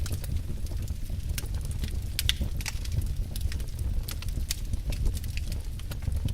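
Wood fire burning in a fireplace, crackling with many irregular sharp pops over a low steady rumble.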